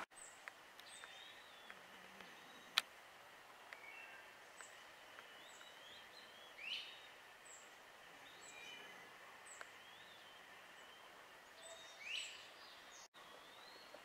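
Faint calls from several songbirds: thin high chirps and short whistles, with two louder rising whistled calls about seven and twelve seconds in. A single sharp click comes about three seconds in.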